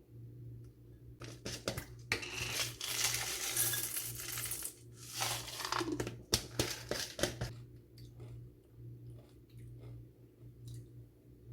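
Small hard objects clinking and clattering, with a dense rustling noise from about two to seven and a half seconds in and scattered ticks after, over a steady low hum.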